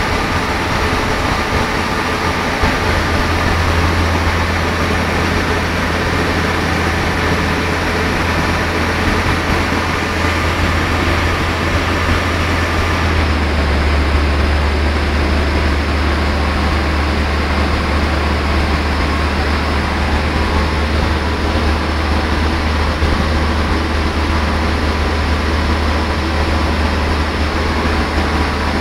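Car engine running steadily under load on a rolling road (chassis dynamometer), held at a constant speed while its ignition and fuel maps are adjusted, with the hum of the rollers. The tone shifts slightly lower about 13 seconds in.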